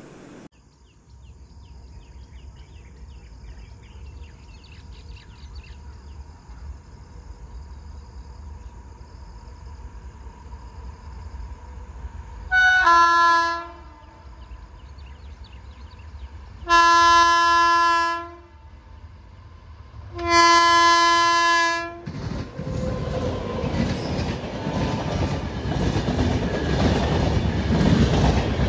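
WAP7 electric locomotive sounding its horn three times on the approach: one short blast, then two longer ones. About three quarters of the way in, the train reaches the microphone and a loud, building rush of coach wheels on the rails takes over as the express passes.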